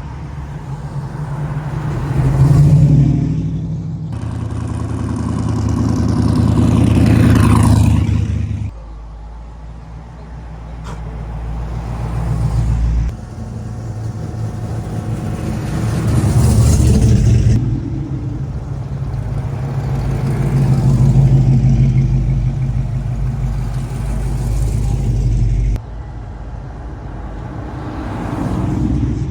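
Classic and custom car engines driving past one after another, each swelling louder and then fading, with the sound changing abruptly a few times.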